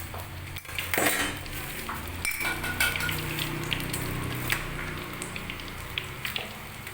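Floured zebra dove going into hot cooking oil: a loud burst of sizzling about a second in, then steady sizzling with scattered clinks of a utensil against the pan.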